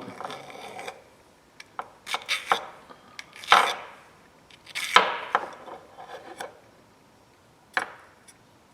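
A small triangle file worked against the steel of an adjustable wrench to take down a burr: a few short, irregular scraping strokes with light metal clicks, the loudest about three and a half seconds in.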